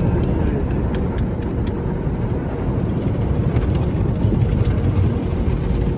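Automatic car wash heard from inside the car: a loud, steady rumbling wash of noise with a few faint clicks over it.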